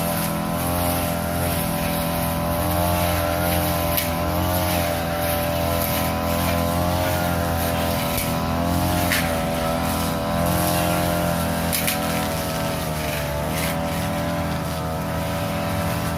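Small petrol engine of a grass-cutting machine running steadily under load while cutting grass. Its pitch wavers slightly up and down, with a few brief ticks of debris.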